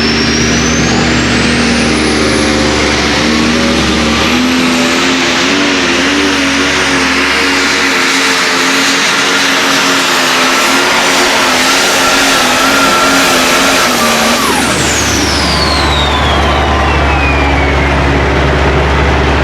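Light pro stock pulling tractor's turbocharged diesel engine at full power during a pull, with a high turbo whine that climbs over the first few seconds and holds. About three-quarters of the way through the engine is shut down at the end of the run, and the turbo whine winds down over several seconds.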